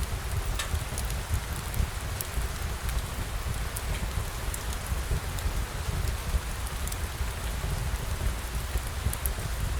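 Steady rain falling, with scattered sharp little ticks of drops and a steady low rumble underneath.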